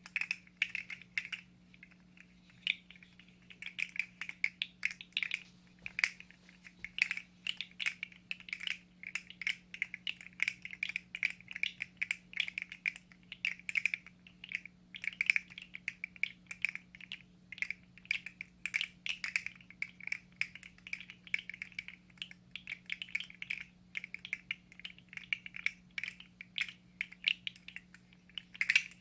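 Rapid, irregular clicking and clattering of hard plastic handled close to the microphone, several clicks a second without a break.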